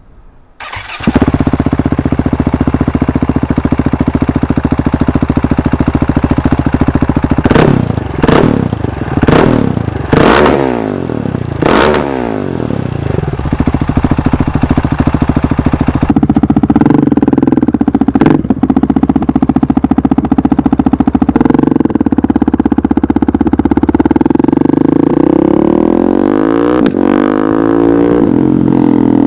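Husqvarna 701 Supermoto's big single-cylinder engine through an Akrapovic exhaust with the baffles out. It idles steadily, is blipped about five times in quick succession, then pulls away and is ridden with the note rising and falling through the gears.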